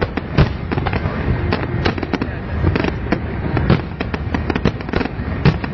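Aerial fireworks display going off: a rapid, irregular run of sharp bangs and crackling reports, several a second, over a continuous low rumble of shells bursting.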